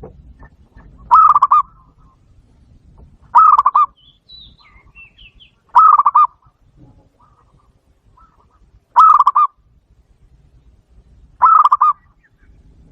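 Zebra dove calls played loudly through a Bluetooth speaker: five short, fast-pulsed coos about half a second each, repeated every two to three seconds. Faint high chirps come in between.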